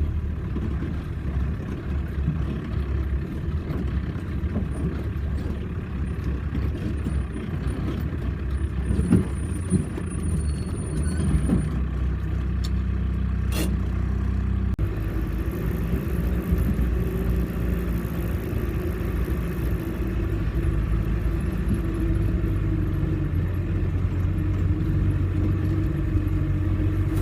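Off-road vehicle's engine running steadily with a low rumble. There is a single sharp click about halfway through, and the engine note shifts just after it.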